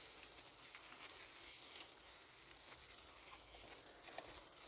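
Bicycle tyres rolling over a rough dirt trail, a faint continuous crackle of many small irregular ticks.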